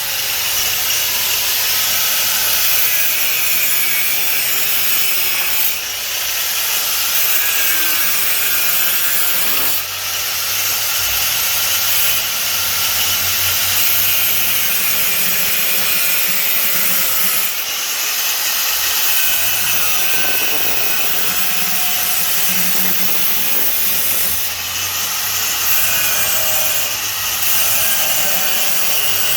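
4½-inch angle grinder with a cut-off disc cutting sheet metal, a steady loud grind that lets up briefly a few times.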